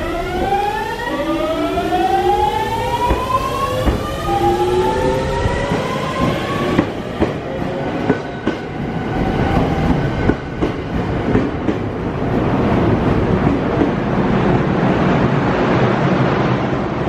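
Electric train with a GTO-thyristor VVVF inverter accelerating: the inverter's whine climbs in pitch in steps over the first several seconds. Clicks follow, then a rising rush of wheel and running noise as the train gathers speed.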